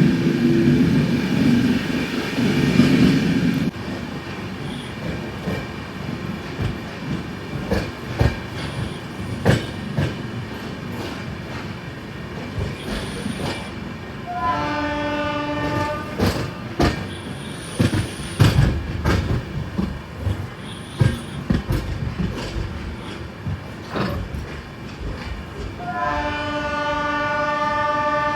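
Indian Railways express train on the move: a heavy rumble at first, then the wheels knocking over rail joints. A train horn sounds twice, each blast about a second and a half, once about halfway and once near the end.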